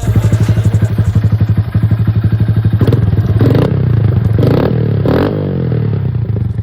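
Honda Grom's 125 cc single-cylinder four-stroke engine idling through an aftermarket exhaust with an even, pulsing beat, blipped three times in quick succession near the middle, each rev rising and dropping back to idle.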